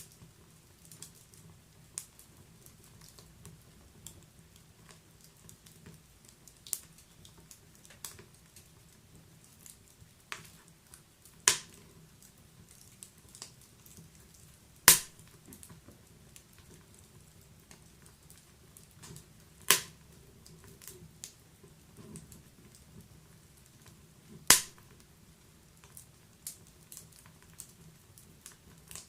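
Wood fire crackling in a fireplace: scattered small crackles over a low steady hiss, with four louder sharp pops a few seconds apart.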